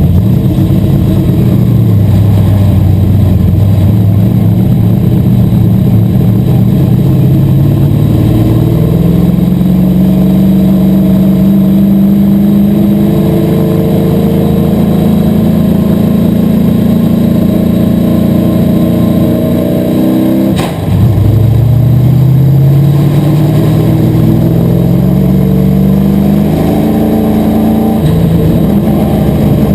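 An asphalt modified race car's V8 engine running hard. Its pitch climbs steadily as it accelerates and then holds high. About two-thirds of the way through it drops sharply off the throttle with a brief click, then climbs again under power.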